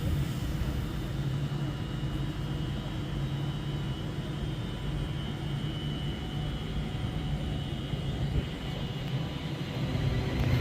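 Train standing at the platform with its equipment running: a steady low hum with a faint whine above it, growing louder near the end.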